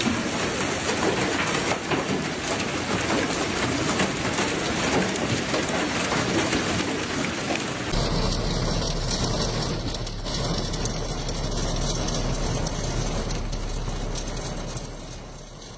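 Heavy rain pounding on hard surfaces, a dense steady hiss full of tiny impacts. About eight seconds in the sound changes, thinner on top with a low steady hum underneath.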